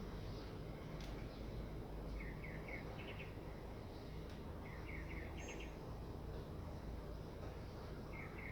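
A bird chirping in short quick runs, three times over a few seconds, over a steady low background rumble.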